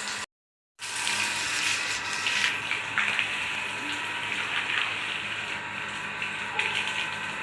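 Running water gushing steadily, as from a tap or pipe, broken by a half-second dropout just after the start.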